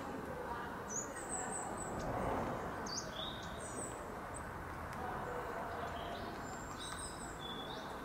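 Birds giving short, high, thin chirps, several times, that slide downward in pitch, over a steady low background rumble of outdoor noise.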